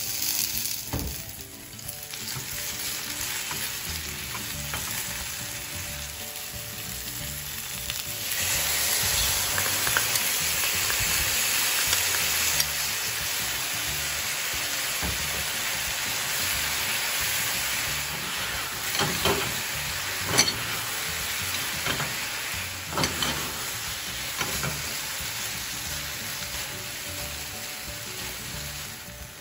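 Chicken and lotus-root slices sizzling in a frying pan, with a steady hiss that gets louder about eight seconds in as the seasoning sauce goes in and is stirred through. A few sharp knocks of chopsticks against the pan come in the second half.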